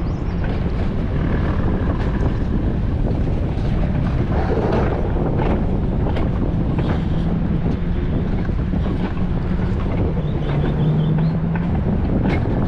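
Wind buffeting the microphone over the steady rumble of an alpine coaster sled running down its track, with a low hum underneath that dips slightly in pitch near the end.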